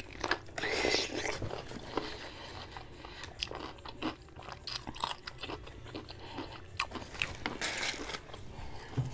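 A bite into a whole juicy pickle, a loud wet crunch about half a second in, followed by chewing: a run of small crunches and mouth clicks.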